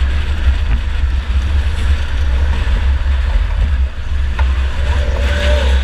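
2004 Chevy Impala enduro race car running on the track, a steady deep rumble of engine and road noise with wind buffeting, and a sharp knock about four and a half seconds in.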